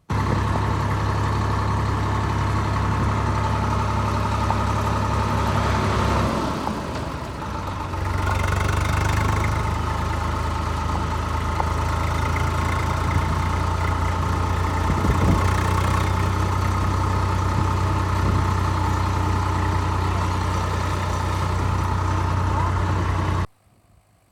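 An engine idling steadily with a low hum. It dips briefly about six seconds in, then picks up again and cuts off suddenly near the end.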